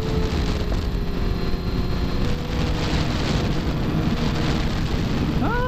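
Wind rushing over the camera microphone of a sport motorcycle ridden at speed, with the bike's engine running steadily underneath.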